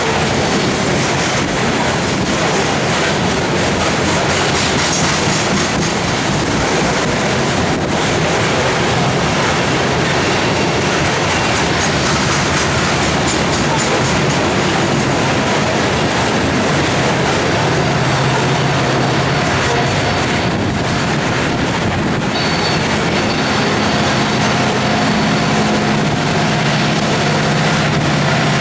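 Loaded coal hopper cars rolling past with a steady wheel rumble and clickety-clack over the rail joints. In the last third a diesel locomotive's steady engine hum comes in: the rear distributed-power unit approaching.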